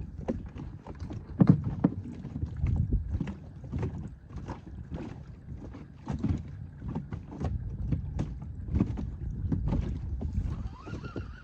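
Irregular knocks and clatters of fishing gear being handled aboard a small inflatable boat, over a low rumble.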